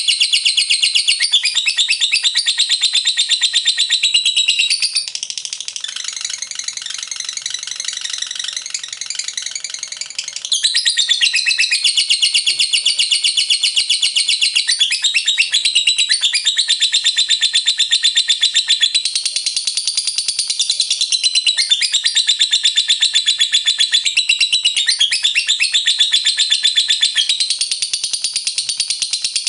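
Lovebird singing in its long 'ngekek' chatter, a continuous run of rapid, shrill repeated notes. It goes somewhat quieter for about five seconds around a quarter of the way in, then returns to full strength.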